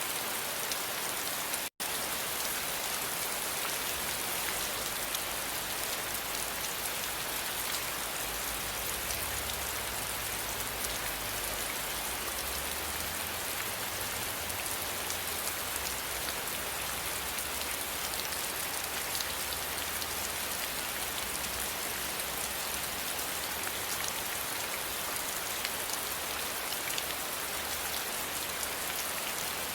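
Steady rain: an even hiss of rainfall with fine ticks of individual drops and a low rumble underneath. The sound cuts out for a split second about two seconds in.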